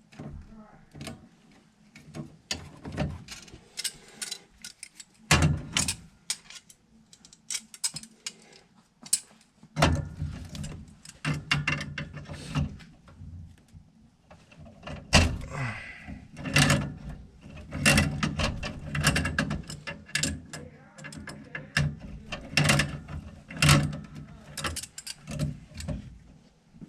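Hand tools and metal parts clicking, clanking and knocking irregularly during work on a furnace's gas valve and manifold fittings, getting busier and louder about ten seconds in.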